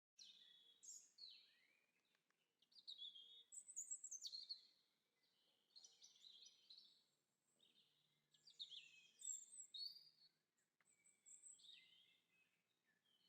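Quiet songbird chorus: phrases of rapid high chirps, trills and twitters, a second or two long with short pauses between, loudest around four and nine seconds in.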